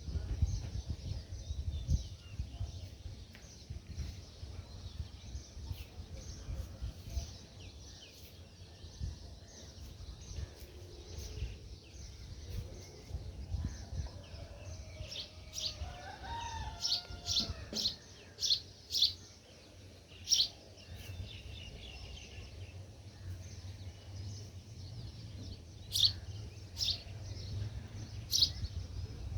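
Small birds chirping, with runs of short, sharp high chirps about halfway through and again near the end, over a steady low rumble. A wavering call lower in pitch sounds briefly about halfway through.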